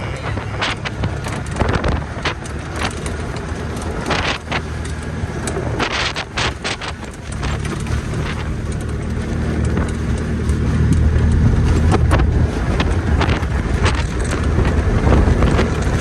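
A vehicle engine running as it is driven, with a low steady note. Many sharp knocks and rattles come in the first half, and from about halfway the engine note runs steadier and a little louder.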